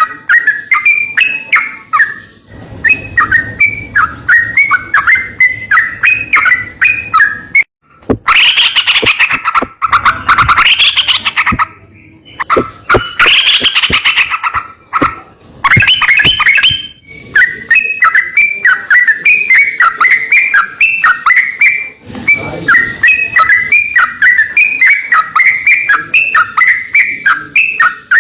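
A crocokan songbird singing a rapid, chattering song of short repeated chirps. About a third of the way in, the song gives way for several seconds to louder, harsher, scratchy calls, then the quick chirping resumes.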